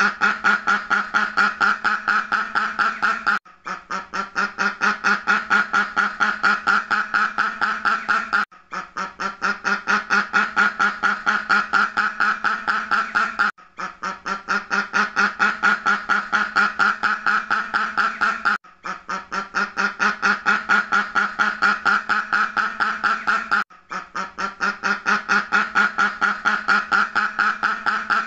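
Ducks quacking rapidly and without pause, several quacks a second. The same stretch repeats as a loop, with a brief break about every five seconds.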